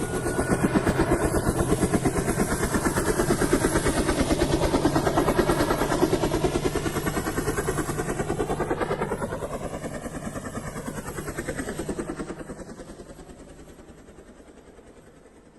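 A vehicle passing by: a rapidly pulsing motor sound that swells to a steady loud level, bends down in pitch about ten seconds in, then fades away.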